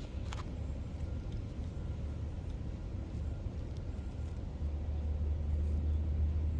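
A low, steady rumble that grows louder about four and a half seconds in.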